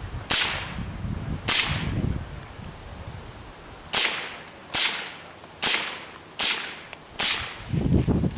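.22 LR rifle shots: seven sharp cracks, two about a second apart and then a steady string of five about one every 0.8 seconds.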